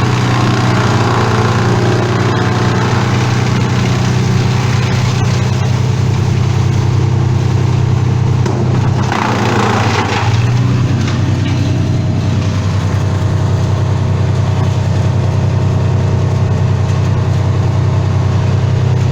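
An engine running steadily throughout, with a brief louder burst of rushing noise about nine to ten seconds in.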